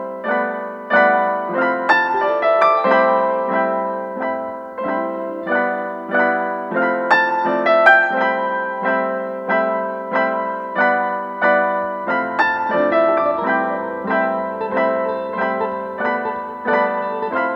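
Background piano music, a gentle run of notes at about two a second, with a low bass line joining about twelve seconds in.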